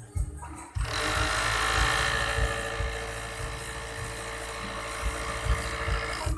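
Overdeck (coverstitch) sewing machine running at a steady high speed; it starts about a second in and stops abruptly just before the end.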